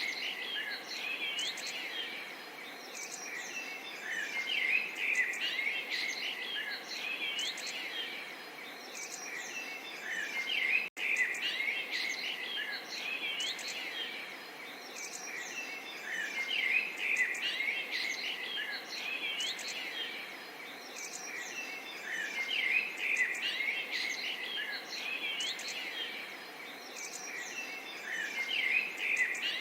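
Many small songbirds chirping and twittering over a steady gentle murmur of running water, with a momentary break in the sound about a third of the way through.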